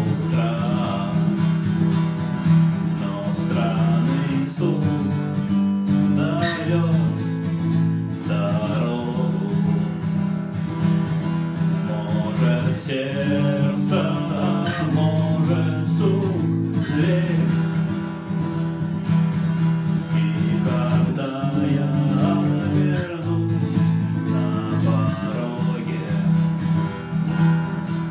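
Acoustic guitar strummed in chords, steady and continuous.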